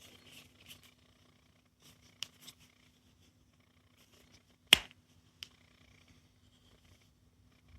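Soft, low purring, with a few sharp clicks over it; the loudest click comes a little past the middle.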